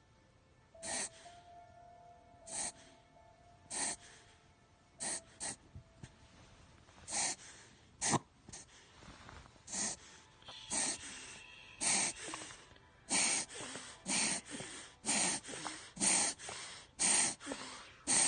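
A dog making short, sharp breathy sounds over and over, a few seconds apart at first, then about one a second in the second half.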